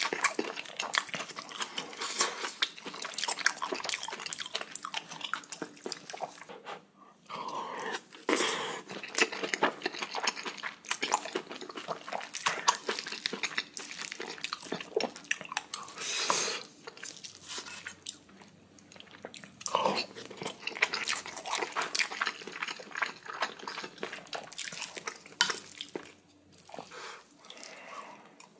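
Close-miked chewing with wet mouth smacking and squelching, in dense irregular clicks that pause briefly a couple of times: spicy braised kimchi, whole beef large intestine and rice being eaten.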